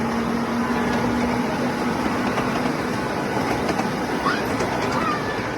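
Ride-on miniature railway train running along the track: a steady rumble, with a low steady hum that fades out about two and a half seconds in.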